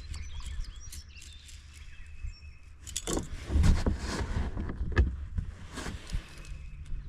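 Birds chirping in the background, with rustling and knocking handling noises in a kayak. The handling noises are loudest between about three and four seconds in, with further knocks near five and six seconds.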